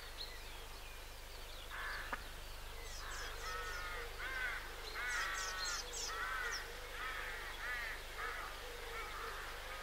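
Birds calling from the riverbank: a run of repeated calls, roughly two a second, starting a couple of seconds in, with short high twittering from a smaller bird.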